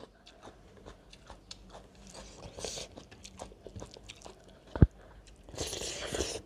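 Close-up eating sounds: chewing, with fingers mixing rice and dal on a steel plate. A single sharp thump about five seconds in is the loudest sound, followed by a louder stretch of wet mouth noise near the end.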